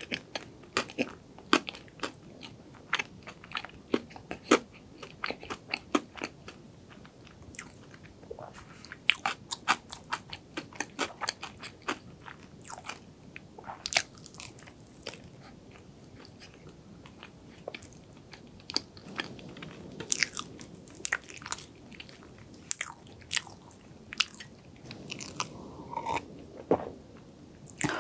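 Close-miked chewing of soft chocolate cake with cream cheese filling: wet mouth clicks and smacks coming many times a second, with short pauses between mouthfuls.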